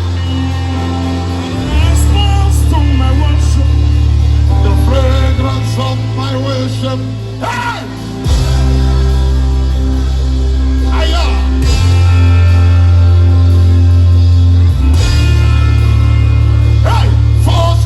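Live gospel worship band music with deep sustained bass chords that change every few seconds, and a singer's voice over it.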